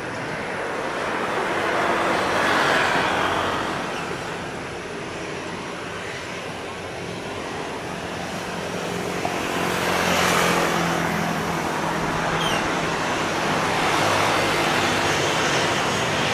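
CFM56-7B jet engines of a Boeing 737-800 on its takeoff run: a steady rumble that swells and fades several times.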